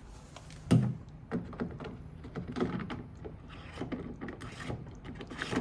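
Plastic drain-filter cap of an LG front-loading washer being fitted back and screwed in. There is one knock about a second in, then a run of lighter plastic clicks and scrapes as it is turned tight.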